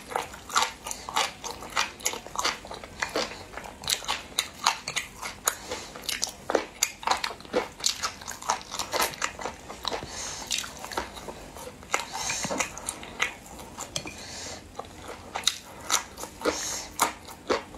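Person eating close to the microphone: wet chewing and biting, with sharp clicks and smacks coming a few times a second.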